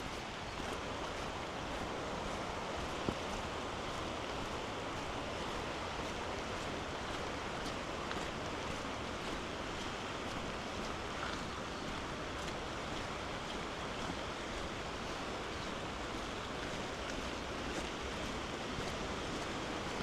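Steady rushing of a river swollen by heavy rain and in flood, an even, unbroken water noise, with one faint knock about three seconds in.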